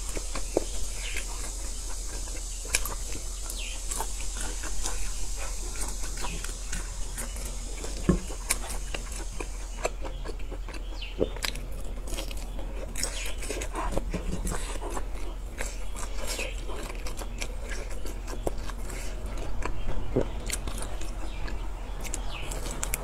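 Close-up mouth sounds of someone biting into and chewing grilled pork sausage: irregular wet chewing clicks and smacks with occasional sharper bites, over a steady low hum.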